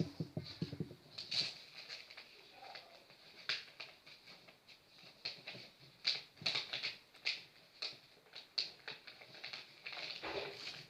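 A sheet of paper being folded and creased by hand: a run of irregular crisp rustles and crackles.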